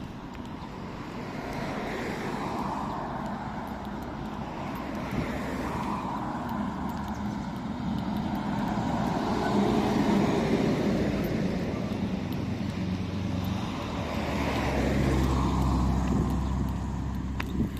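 Road traffic: several vehicles passing one after another, each swelling and fading, with a heavier vehicle's low engine hum building in the last few seconds.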